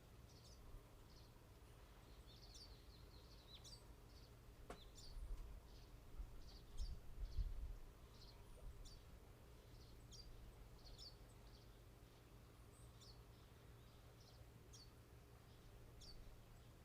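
Small birds chirping faintly outdoors, with short high chirps repeating all the way through. A sharp click comes just under five seconds in, followed by a low rumble from about five to eight seconds in.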